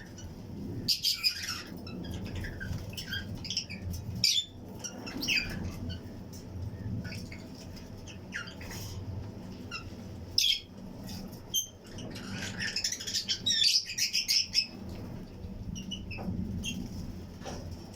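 A colony of Fischer's and lutino lovebirds chirping and squawking in short, shrill, overlapping calls, busiest about a second in, around four seconds in, and again between about ten and fourteen seconds, over a steady low background hum.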